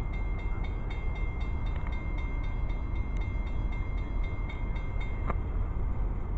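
Train passing with a steady low rumble and faint, evenly spaced clicking, about four a second.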